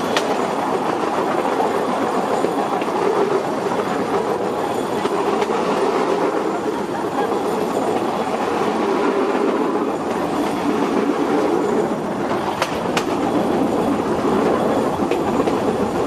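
Bamboo train (norry) running along the rails: a steady rumble and rattle, with a couple of sharp clicks about three-quarters of the way through.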